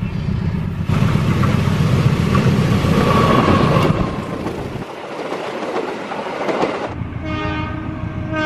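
KAI CC201 diesel-electric locomotive and its passenger coaches passing close by: a loud rumble of engine and wheels on rail that eases after about four seconds. Near the end a locomotive horn sounds in short blasts.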